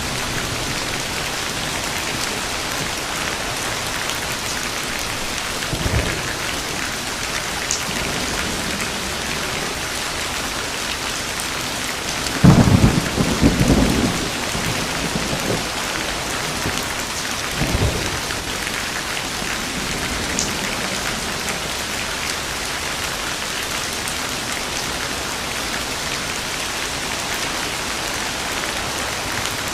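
Steady heavy rain with thunder: a loud crack and rumble about halfway through, and fainter rumbles about a third of the way in and again a little later.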